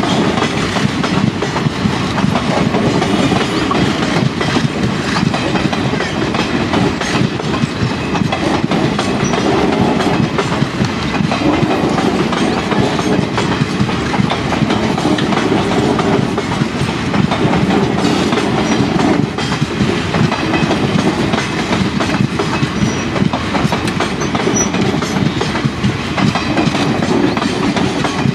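A train rolling steadily past, its wheels clattering over the rail joints.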